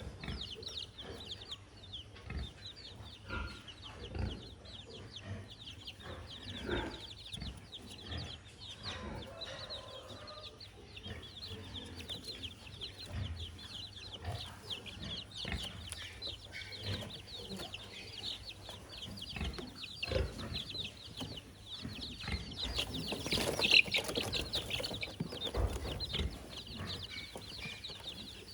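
Chickens calling, with many rapid high-pitched chirps throughout that swell to a louder bout near the end, and scattered soft knocks.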